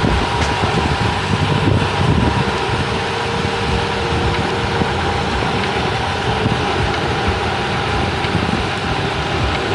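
Steady rush of wind buffeting the microphone of a ride camera on a moving gravel bike, with an uneven low rumble and a faint steady hum throughout.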